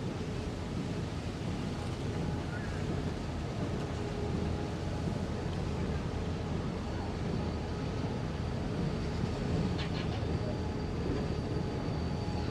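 Steady rumble of a passenger train rolling along the track, heard from aboard the coach. A faint high wheel squeal comes in during the second half, with a couple of brief clicks near the end.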